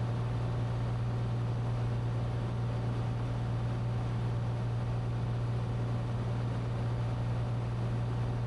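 Cessna 182T's six-cylinder Lycoming IO-540 engine and propeller in flight, a steady low drone that holds constant.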